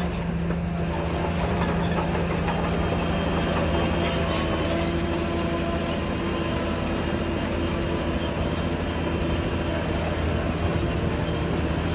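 Shantui bulldozer's diesel engine running steadily under load, with the clatter of its steel crawler tracks.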